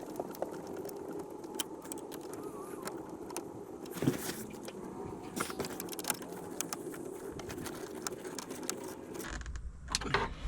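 Light clicks and rattles of small parts and tools being handled over a steady background hum; about nine seconds in, the hum gives way to a low rumble.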